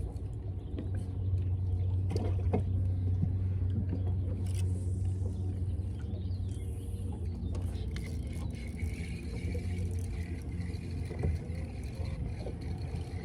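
A boat motor running with a steady low hum, with scattered small clicks and knocks of handling on the boat.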